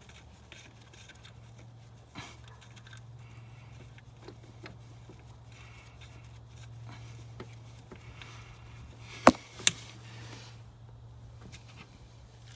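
Hand tools working on the engine bay during an alternator and belt job: scattered small metallic clicks and scrapes, with two sharp loud clicks half a second apart about nine seconds in, over a steady low hum.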